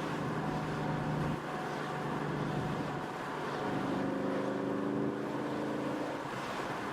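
2015 Mustang GT's 5.0 V8 running through an MBRP 3-inch cat-back exhaust while the car is driven. The engine note shifts about a second and a half in, then rises and grows louder partway through.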